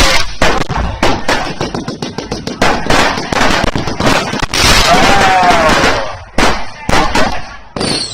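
Fireworks and firecrackers going off in rapid, irregular bangs and pops, with a dense spell of crackling about halfway through and a brief whistling tone inside it.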